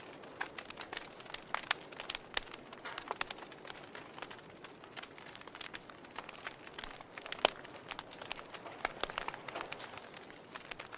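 Wood fire crackling, with irregular sharp pops and snaps over a soft hiss; the loudest pop comes about seven and a half seconds in.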